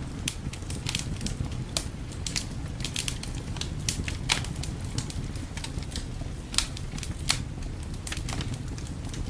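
Wood fire crackling, with scattered sharp pops at an uneven pace and a few louder ones near the middle, over a steady low rumble of wind.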